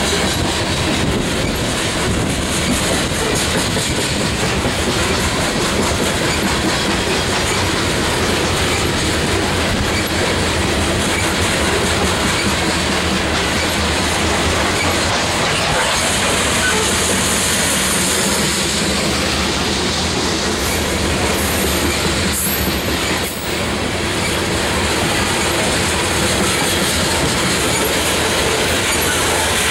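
Loaded coal hopper cars of a unit freight train rolling past at close range: a steady loud rumble and clatter of steel wheels over the rails. A high-pitched hiss rises for a few seconds just past the middle.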